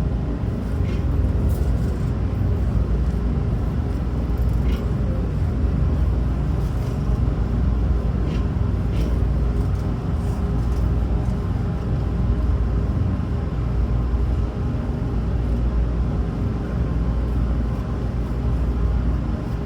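Steady low rumble inside a Hanshin Railway train car, with a few faint clicks scattered through it.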